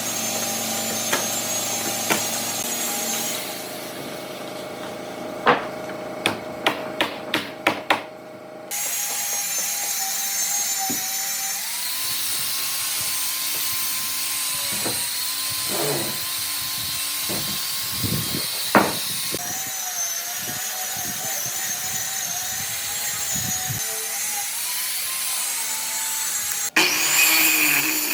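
A woodworking power tool running steadily on wood. In a quieter stretch a few seconds in, a quick run of sharp knocks is heard.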